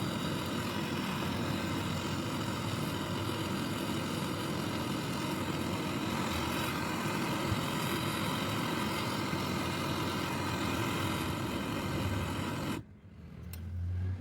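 A machine running steadily with a dense mechanical drone. It cuts off suddenly near the end, followed by a brief low hum that swells and stops.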